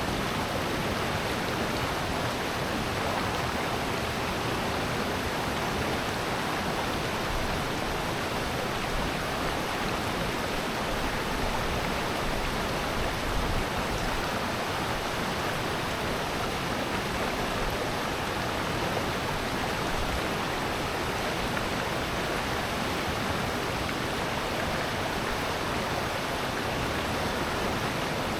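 Steady, even rush of water in a valley stream.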